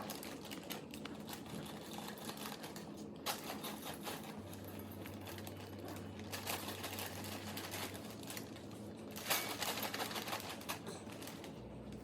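Dry, crunchy chow mein noodles rattling and crackling as they are shaken and stirred into a bowl, a dense run of small irregular clicks, a little louder about three seconds in and again near nine seconds.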